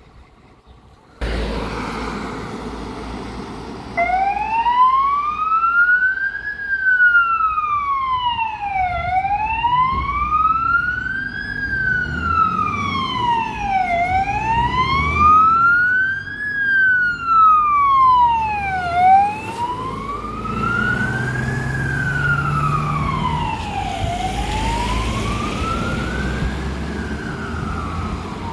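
Siren of a Scania GBARt fire engine, wailing in slow rises and falls about every five seconds, over the truck's low engine rumble. The rumble starts suddenly about a second in, and the siren starts about four seconds in.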